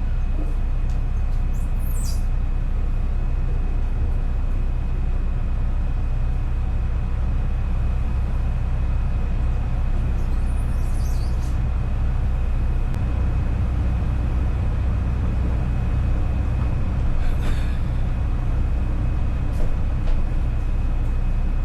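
Twin inboard engines of a 70-foot yacht running at low idle during docking: a steady low rumble with a thin steady whine above it.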